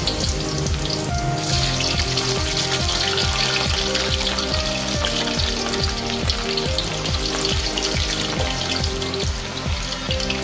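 Potato pieces deep-frying in hot oil in a wok, a steady crackling sizzle that grows stronger about a second and a half in. Background music with a rhythmic bass line plays underneath.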